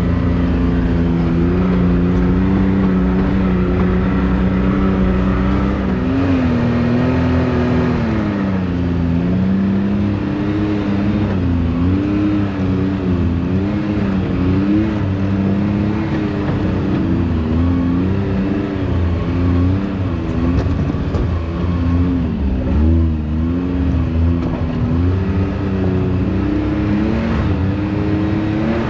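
Can-Am Maverick X3's turbocharged three-cylinder engine running under load off-road. Its pitch is steady at first, drops about eight seconds in, then rises and falls repeatedly as the throttle is worked on and off.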